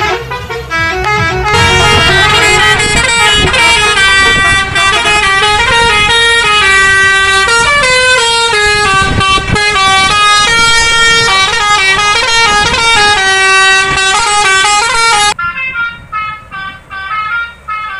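Bus musical air horn playing a tune of stepping notes, very loud, over the low rumble of the engine. Near the end it cuts off suddenly, and a quieter horn tune follows.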